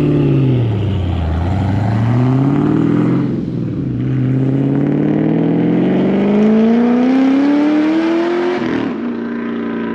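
Supercharged, straight-piped Camaro V8 on a full-throttle pull. The engine pitch swells and dips in the first second and climbs to about three seconds in. It drops sharply at a gearshift, then rises steadily in one long climb. Near nine seconds the throttle is lifted and the engine falls back to a steady lower drone.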